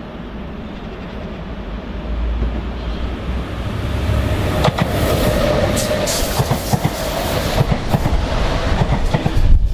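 Electric train approaching and passing close by, growing steadily louder, with the wheels clacking over rail joints from about halfway through.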